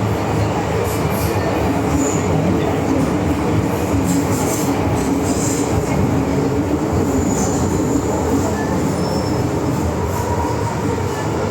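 MTR M-Train electric multiple unit running between stations, heard from inside the car: a steady rumble of wheels on rail, with a few brief faint high-pitched squeals.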